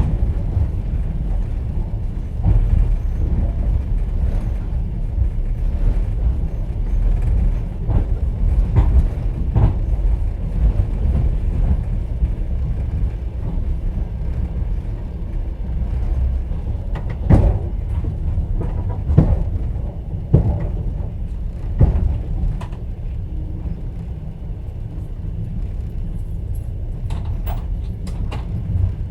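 Passenger train running, heard from inside an open-plan sleeper carriage: a steady low rumble with the clatter of wheels over the rails. There are several sharper knocks, about a second and a half apart, a little past the middle.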